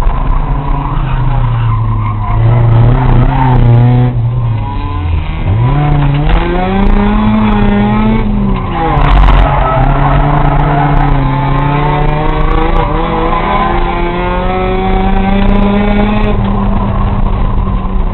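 Sports car racing engine pulling hard at speed. Its pitch drops about four seconds in, climbs steeply as it revs back up, dips again near the middle, then holds and rises slowly, over a steady rush of tyre and road noise.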